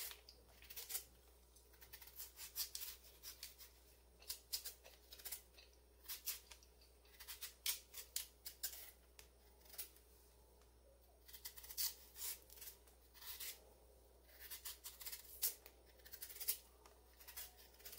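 Kitchen knife peeling a sweet potato held in the hand: quiet, short, irregular scraping and slicing strokes.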